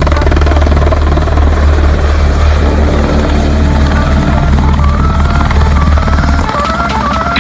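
Helicopter in flight: the rotor beats in fast, steady pulses over the engine noise. About halfway through, electronic music comes in, and near the end the helicopter sound cuts off and leaves the music.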